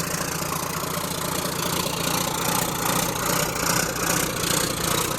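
Diesel engine of a John Deere 6850 articulated tractor running steadily as the tractor drives off under way.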